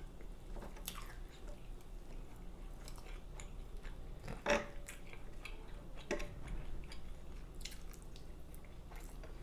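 Close-miked chewing of food, soft and wet, with scattered small mouth clicks and a couple of sharper clicks about four and a half and six seconds in.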